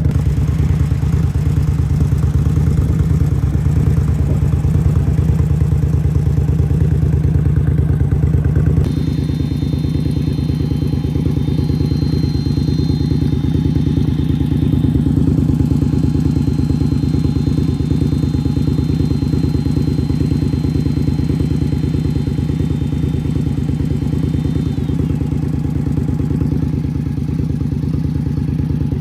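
2016 Indian Scout Sixty's liquid-cooled V-twin idling steadily through Vance & Hines aftermarket exhaust pipes. The idle eases slightly quieter about nine seconds in.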